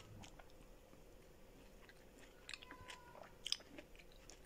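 A person chewing food close to the microphone: faint, scattered wet mouth clicks, with one sharper click about three and a half seconds in.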